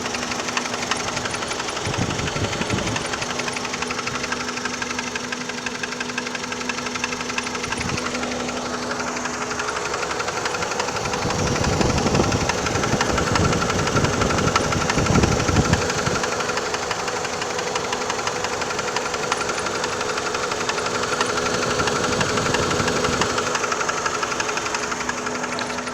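2002 Chrysler PT Cruiser's four-cylinder engine running with a rapid, steady knocking, of a cause the owner does not know. The engine sound grows louder and deeper for a few seconds around the middle.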